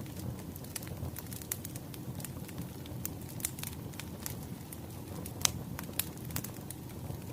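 Wood fire crackling: a steady low rumble of burning logs with irregular sharp pops and snaps, the loudest pop about five and a half seconds in.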